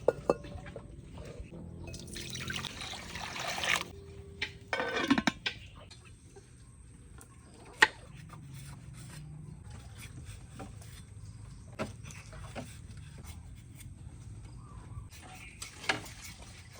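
Water pouring twice: a longer pour that grows louder, then a short one, followed by scattered light clicks and knocks.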